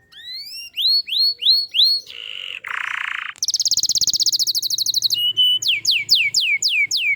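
Domestic canary singing a varied song: a run of rising whistled notes, a harsh buzzy passage about two seconds in, a fast trill of rapidly repeated notes around the middle, then a quick series of falling notes near the end.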